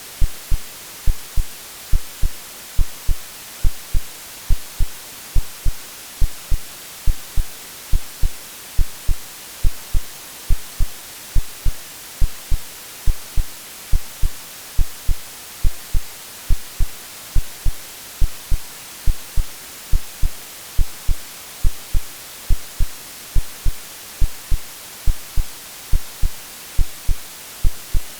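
AI-generated heartbeat: steady double thumps (lub-dub) about once a second, over a constant white-noise hiss, the kind of womb-like sound used to settle a crying baby.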